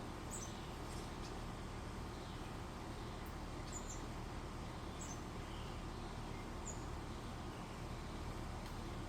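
Outdoor ambience with a steady low background hum, and a few short, high-pitched chirps from small birds scattered through it, about four in all.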